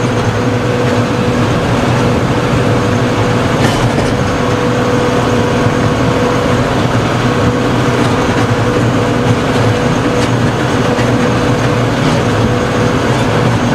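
Farm tractor engine running steadily under load while driving a PTO-powered implement, a constant drone with a thin steady whine over it.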